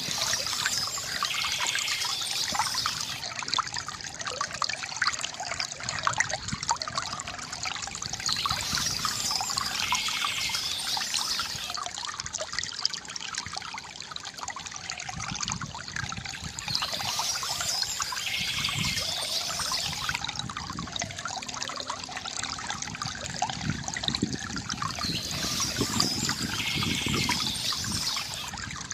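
Water trickling and splashing steadily from a bamboo fountain, with a brighter high-pitched swell returning about every eight or nine seconds.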